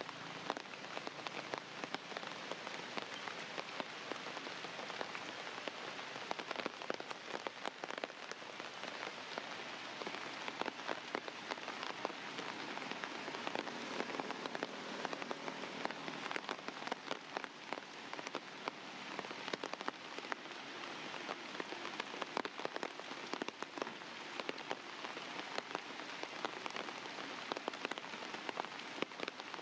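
Steady rain falling, with many separate drops hitting a surface.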